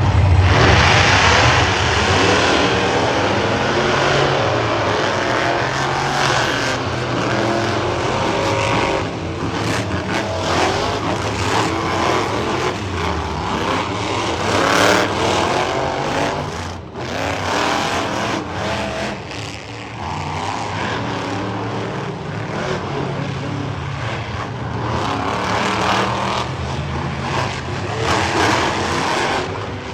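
Monster truck engines running and revving loudly, their pitch repeatedly rising and falling.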